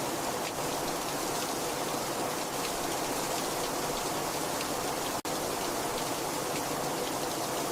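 Heavy rain falling steadily, with individual drops ticking through the hiss. The sound cuts out for an instant about five seconds in.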